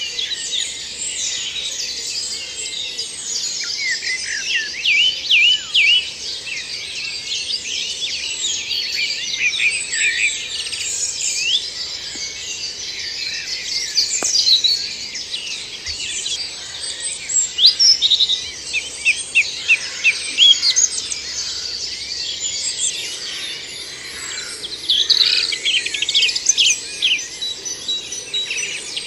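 Spring dawn chorus: many songbirds singing at once, their songs and chirps overlapping without a break.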